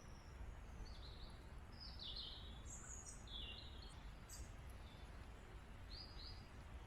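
Small woodland birds chirping on and off in short, high notes, some sliding down in pitch, over a faint steady low rumble.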